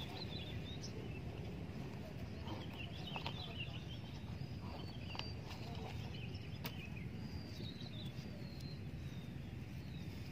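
Birds chirping in short, high, gliding calls over a steady low rumble, with a few sharp clicks in between.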